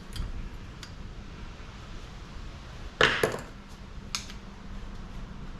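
A few light clicks, then a short clatter of several hard metal strikes about three seconds in and one more click a second later: scrap parts being handled while an air conditioner is stripped.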